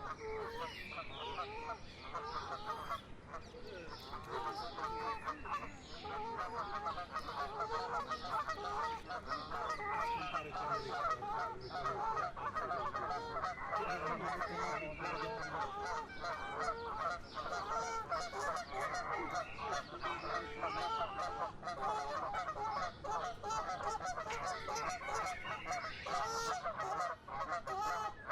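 A flock of birds calling over one another in a dense, continuous chatter of short honk-like calls.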